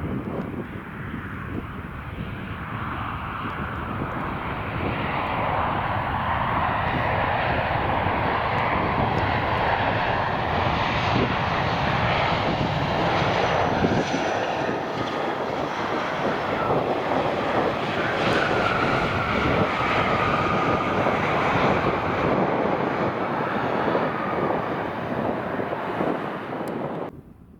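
Jet aircraft engines as an airliner passes close by. The noise builds over several seconds, stays loud, and has a faint whine drifting down in pitch about two-thirds of the way through. It cuts off suddenly near the end.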